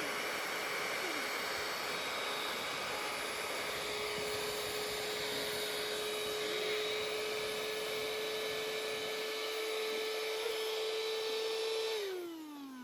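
A small electric motor or blower running steadily with a constant whine. It is switched off near the end and spins down, the whine falling in pitch.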